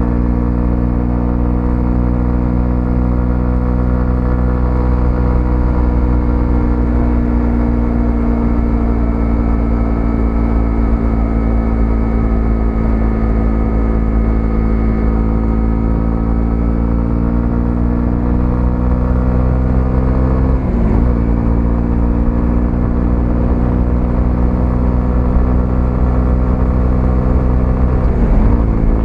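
125cc motorcycle engine running steadily while riding, its pitch drifting slowly, with two short dips in the engine note, one about two-thirds through and one near the end.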